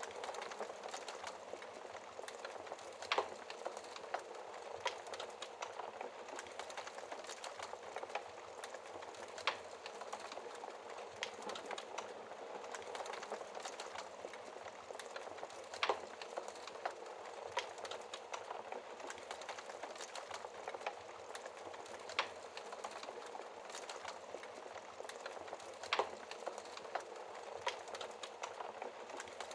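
Wood fire in a fireplace crackling: a steady hiss with frequent small snaps and a few louder pops.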